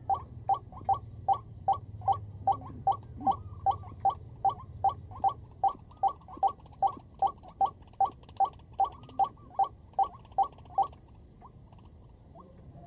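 White-breasted waterhen calling: a rapid run of short, repeated croaking notes, about two and a half a second, that stops about eleven seconds in. A steady high-pitched whine runs underneath.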